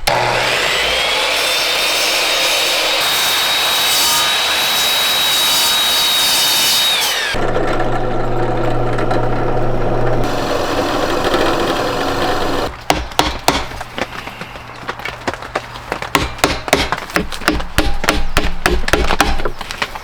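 Electric power sander on wood. It spins up with a rising whine, runs steadily, and winds down about seven seconds in. A second steady motor stretch with a low hum follows, then quieter, irregular rubbing strokes on the wood.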